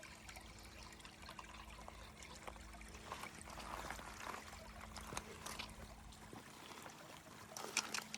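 Small creek trickling faintly, with a few sharp clicks near the end.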